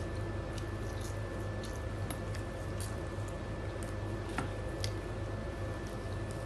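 Mouth sounds of chewing fried pakora, with scattered short crisp clicks and squishy smacks. Under it runs a steady low hum with a thin high whine.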